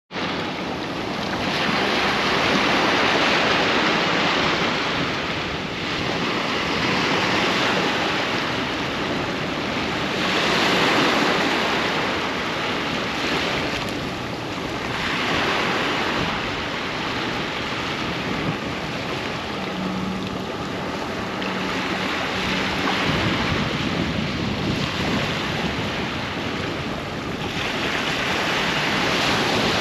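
Ocean surf on a sandy beach: waves breaking and washing up the shore, swelling and easing every few seconds.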